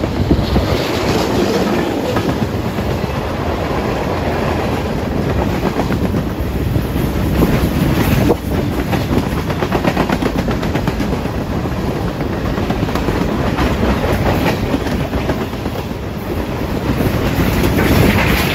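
Freight cars rolling past, their steel wheels clacking on the rails over a steady rumble.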